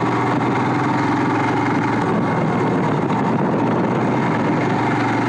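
Royal Enfield Himalayan's 411 cc single-cylinder engine running steadily at low revs as the motorcycle rides along, heard from the handlebar camera.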